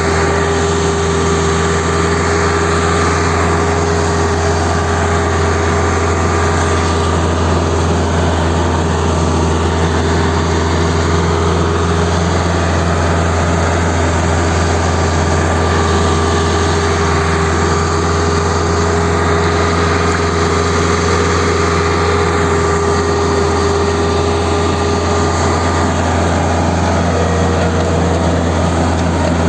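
VST Shakti 5025 DI tractor's diesel engine running at a constant speed: a steady drone that holds one pitch throughout.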